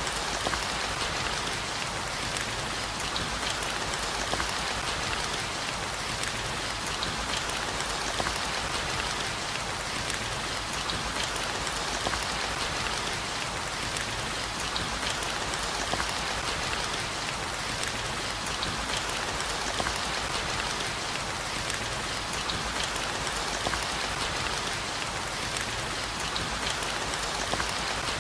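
Steady heavy rain: a constant hiss with many sharp, close drop hits ticking through it.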